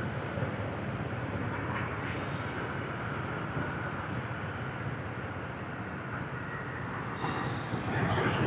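Motorbike traffic heard from a moving motorbike: a steady rush of engines, tyres and wind, growing louder near the end.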